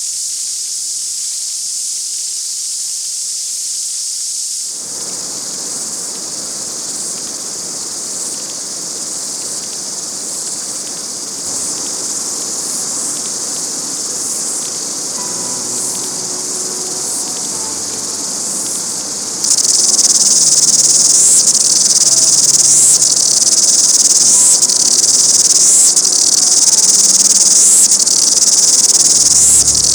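Chorus of New Zealand cicadas: a steady high-pitched buzzing that from about ten seconds in swells in regular pulses a bit under once a second, and grows markedly louder about twenty seconds in.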